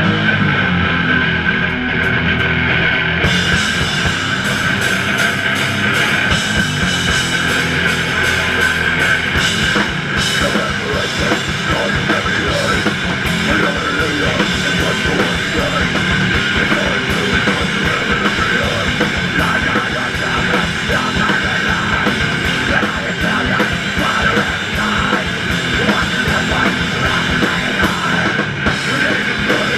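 Live hardcore punk band playing loud and steady: distorted electric guitars, bass and drum kit. About three seconds in, the drums' cymbals come in and fill out the top end.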